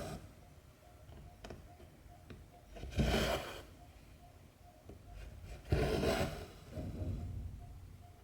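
Embroidery thread being pulled through cross-stitch fabric: a swish about three seconds in, another near six seconds, then a softer one. A faint, even ticking runs underneath.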